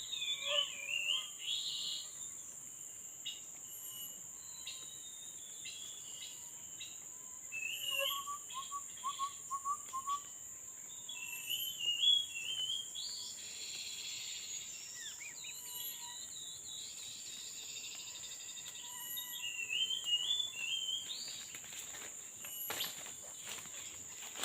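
Tepus babblers calling: short zigzagging chirp phrases repeated several times, with a lower run of quick notes about eight seconds in, over a steady high-pitched insect drone. Scattered rustling clicks near the end.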